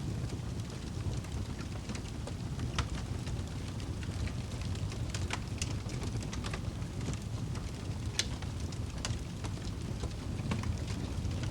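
Wood fire burning in a fireplace: a steady low rumble of flames with irregular crackles and a handful of sharper pops.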